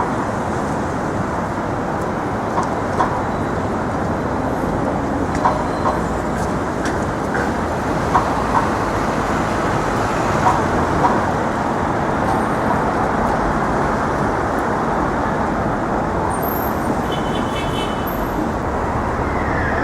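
Steady city street traffic noise, with a few short clicks, some in pairs.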